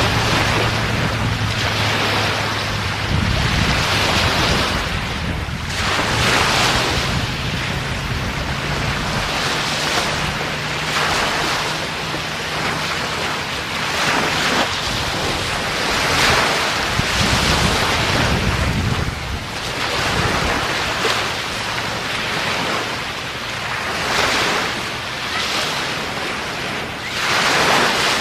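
Sea waves breaking and washing up a beach, the surf swelling and falling back every few seconds, with wind rumbling on the microphone. A faint steady hum lies underneath for about the first half.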